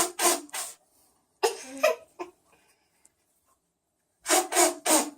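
A child blowing short, hard puffs of breath, in quick runs of three: three puffs at the start, two about a second and a half in, and three more near the end.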